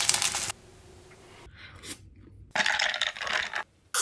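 Takoyaki sizzling on a griddle, cut off after half a second, then short scrapes and a second burst of sizzling-like noise about a second long, ending with a sharp click.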